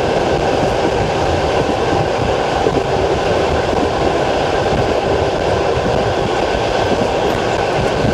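Passenger train carriage running at speed on jointed track, heard from inside the car: a steady, loud rumble of wheels and running gear on the rails.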